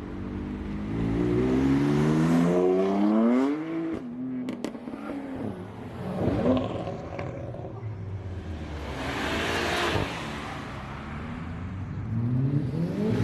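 Performance car engines accelerating hard away: one engine revs up with a steeply rising note for a few seconds and cuts off sharply, followed by a few sharp pops. A shorter rev comes later, then a car rushes past, and another engine starts climbing near the end.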